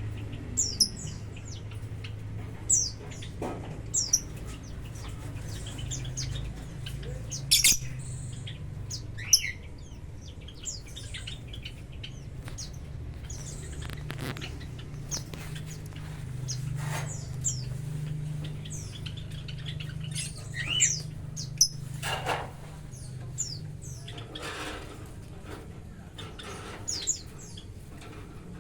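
Lovebirds chirping and squawking in short, high, sharp calls scattered irregularly, over a steady low hum.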